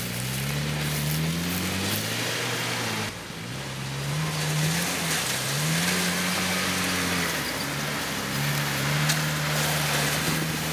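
A 4x4's engine revving up and down several times while driving through mud. It dips sharply about three seconds in, climbs again, and is held fairly steady near the end.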